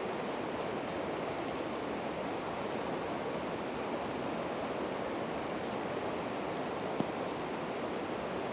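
Steady rush of a river, with a few faint pops from a campfire of split evergreen wood and one sharper crack about seven seconds in.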